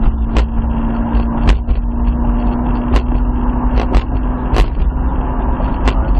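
Toyota Supra's engine running steadily on the throttle, heard from inside the cabin over a heavy low road rumble. Several short sharp knocks sound through it.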